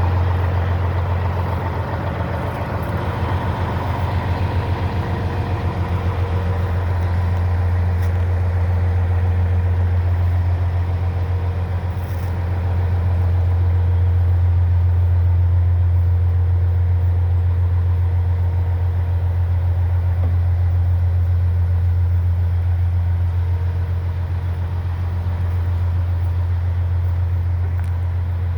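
Scania 111 truck's diesel engine idling steadily, a constant low rumble.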